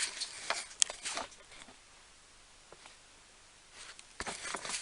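Light clicks and scraping from small parts being handled, in two clusters: a few in the first second or so and another run near the end, with a quiet stretch between.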